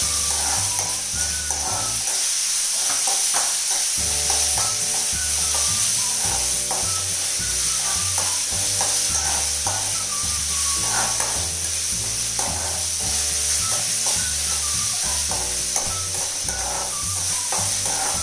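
Diced carrots sizzling in hot vegetable oil in an aluminium kadai, stirred and scraped with a spatula, with background music and a steady bass pattern underneath.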